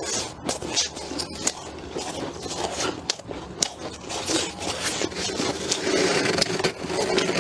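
Freezer frost being scraped loose, a continuous rasping scrape with many small crackles.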